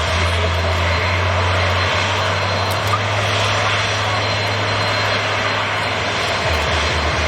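Airbus A350's Rolls-Royce Trent XWB turbofan engines at takeoff power, a loud steady rushing jet noise.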